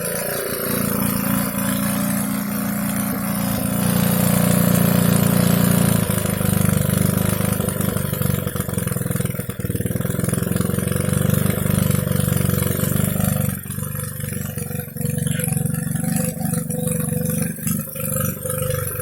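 Small homemade four-stroke engine built from a refrigerator compressor, running steadily. Its note changes about six seconds in and again partway through.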